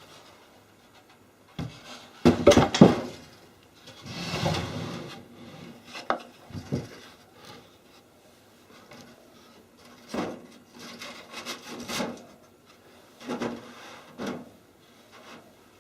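Wooden pieces knocking and scraping against each other in irregular bouts, the loudest clatter about two seconds in, followed by a longer scrape and then scattered knocks.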